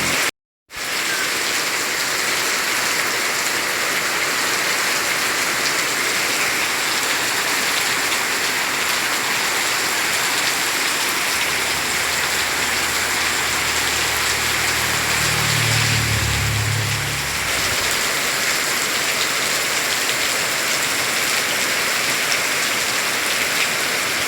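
Heavy rain pouring down in a steady, dense hiss, cut off by a brief silent gap near the start. A low hum rises for several seconds past the middle and then fades.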